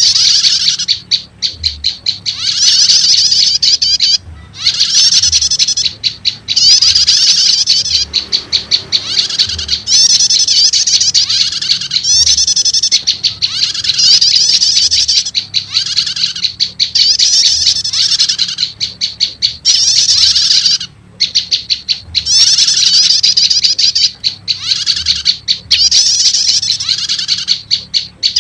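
Bird-lure recording of prenjak lumut calls: loud, rapid chattering trills high in pitch, repeated in phrases of a second or two with short gaps between them.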